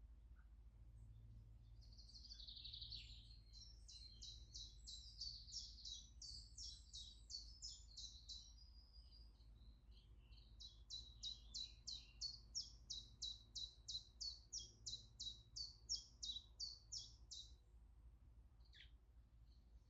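A songbird singing two rapid runs of short, high repeated notes, about three a second, the second run louder and more even than the first, over faint low outdoor rumble.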